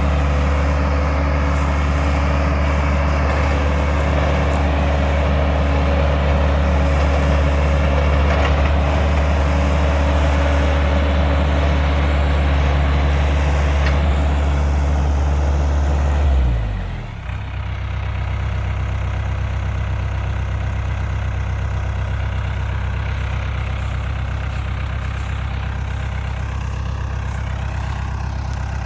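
Old dump truck's engine idling steadily; a little over halfway through its speed drops and it settles into a slower, quieter idle.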